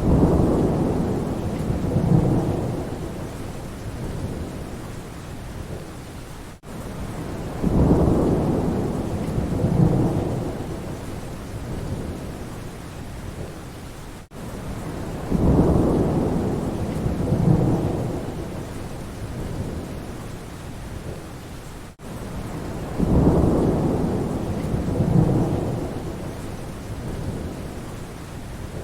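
Rain with rolling thunder: a low rumble swells, peaks twice and fades, four times over, at an even spacing of about eight seconds. The same short stretch is looped, with a brief dropout at each join.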